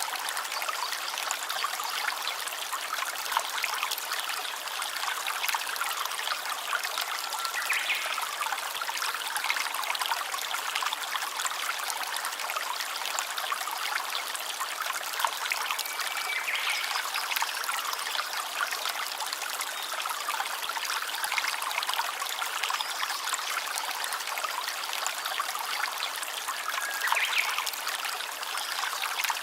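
A stream of water trickling and running steadily, with a few brief high chirps over it.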